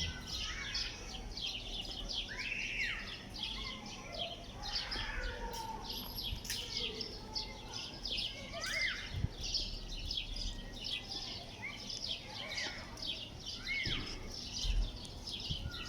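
Many small birds chirping busily, a dense run of short high chirps, with a few louder arched calls now and then.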